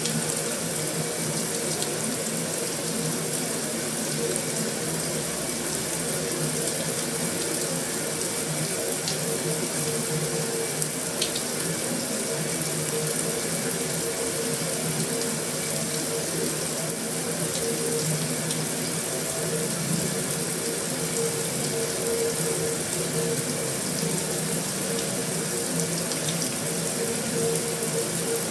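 Heavy rain falling steadily on a metal roof, an even, unbroken hiss.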